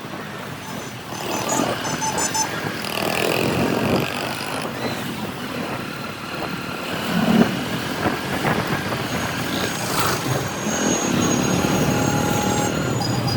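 City traffic heard from a moving motorcycle: the bike's engine and the engines and tyres of cars and trucks around it, mixed into a steady road din. Short high beeps sound about two seconds in, and a passing vehicle swells louder about seven seconds in.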